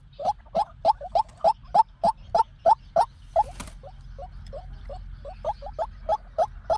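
White-breasted waterhen calling: a long run of short, clipped notes, about three to four a second, louder in the first half. A brief rustling hiss about halfway through.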